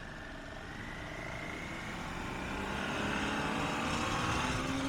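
Motorcycle engine accelerating, its pitch rising slowly and steadily and getting louder, over a rush of wind noise.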